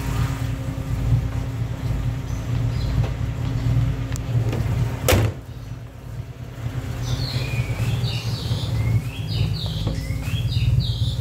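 1996 Toyota Starlet SEG's 1.3-litre EFI four-cylinder engine idling steadily. About five seconds in the bonnet is slammed shut with a single sharp bang. Short bird chirps come in over the idle near the end.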